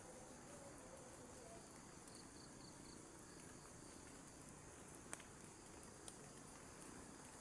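Faint, steady high-pitched chirring of insects such as crickets in the forest, with a short run of quick chirps about two seconds in and a few faint clicks.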